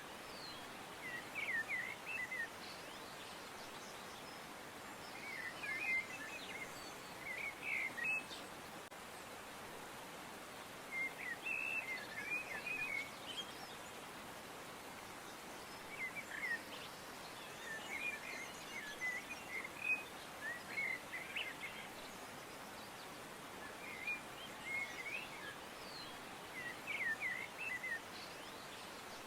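Birds singing: short phrases of quick, high chirps that come every few seconds over a steady background hiss.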